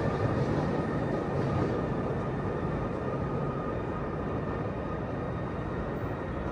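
Elevated CTA 'L' train rolling away along the track, a steady rumble of wheels on rails that slowly fades, with faint thin high tones running through it.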